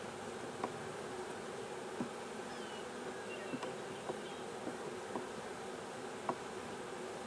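A mass of honey bees buzzing steadily, a swarm stirred up after being brushed off hive frames. Several short light ticks sound scattered through it.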